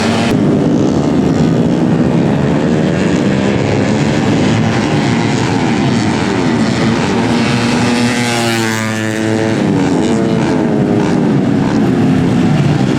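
Several 130 cc four-stroke underbone race motorcycles running hard at once, their engine notes overlapping. About eight seconds in, one bike's note drops and then climbs again.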